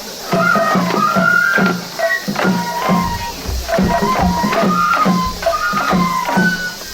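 Japanese festival hayashi music for a lion dance: a bamboo flute plays a sliding, held melody over steady, regular taiko drum beats.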